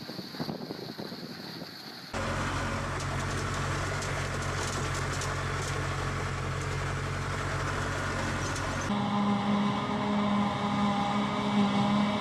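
Farm machinery engines running in three clips cut together. The sound changes abruptly about two seconds in to a steady low engine drone, then again about nine seconds in to a steady pulsing machine hum with a whine above it.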